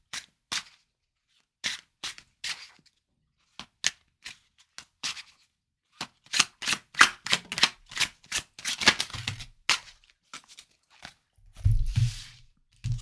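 A deck of tarot cards being shuffled: scattered sharp card snaps that thicken into a quick flurry in the middle, then a soft thump near the end as the cards are set down.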